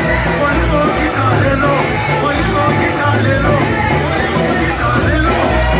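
Loud church worship band music with a repeating bass line and melodic lines over it.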